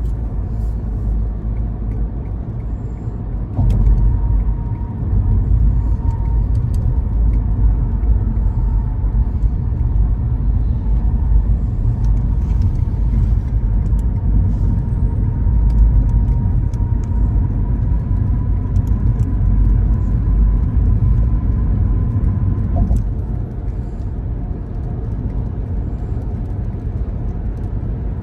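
A car driving on the road: a steady low rumble of engine and tyre noise that gets louder about four seconds in and drops back shortly before the end, with scattered faint ticks.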